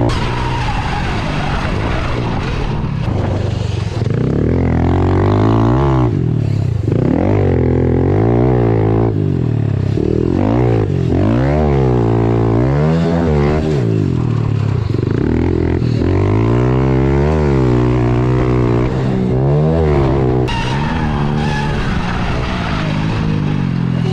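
Honda CRF110 pit bike's small single-cylinder four-stroke engine revving up and down over and over, its pitch climbing and dropping every second or two as the throttle is worked through the gears.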